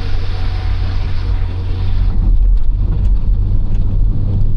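Cabin noise of a 1995 Citroën XM 2.0 Turbo on the move: a steady low engine and road drone with tyre hiss. The hiss drops away about two seconds in, while the low rumble keeps on.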